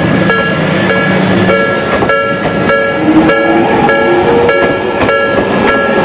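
Tobu 300 series electric train rolling past close by, with a level-crossing warning bell ringing in a steady repeated pattern, about one and a half strikes a second.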